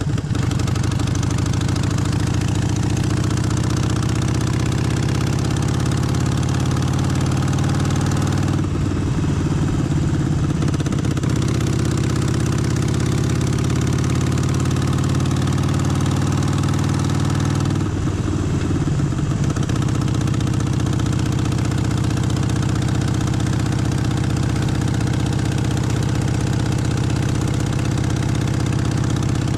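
Harley-Davidson Forty-Eight's air-cooled 1200 cc V-twin running, its note climbing slowly for the first eight seconds. The note changes abruptly about eight and a half seconds in and again around eighteen seconds, then holds steady.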